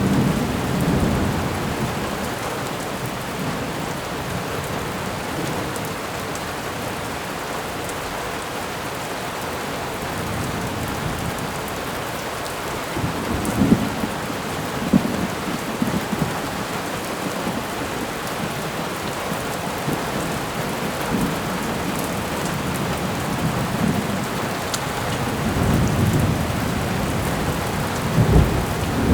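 Thunderstorm: steady rain with rumbles of thunder, one swelling about halfway through and another building near the end.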